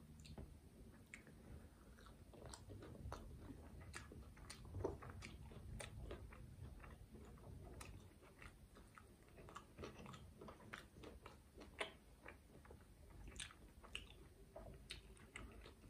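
Faint close-miked chewing of a fried vegetable momo, with many small irregular wet mouth clicks and crunches.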